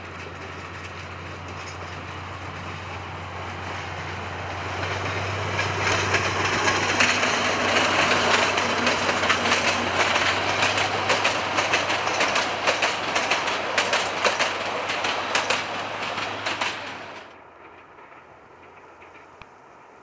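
760 mm narrow-gauge train rolling past close by, its coach wheels clicking over the rail joints over a steady low hum. It grows louder about five seconds in, then drops off suddenly near the end to a faint distant rumble.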